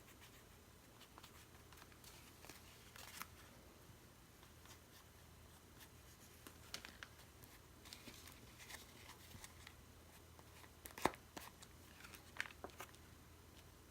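Faint scraping and crinkling of paper as gesso is worked onto a paper-bag page, in short scattered strokes, with one sharp tap about eleven seconds in.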